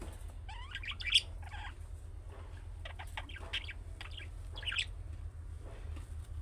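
Budgerigars chirping and warbling: a scatter of short chirps and quick rising calls over a steady low hum.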